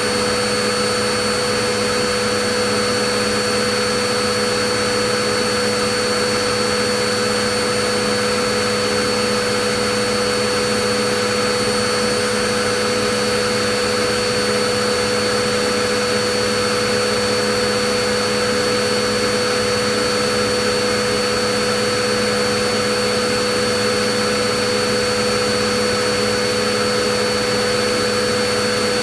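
Vacuum cleaner motor running at a constant speed, a steady whooshing rush with a hum and a high whine held at fixed pitch.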